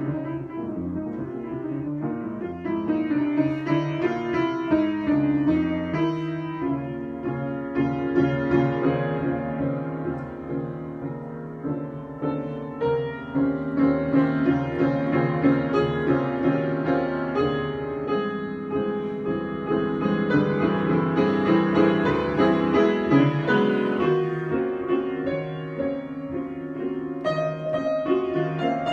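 Improvised piano music: chords and runs of notes played without a break, growing louder in the middle and easing off near the end.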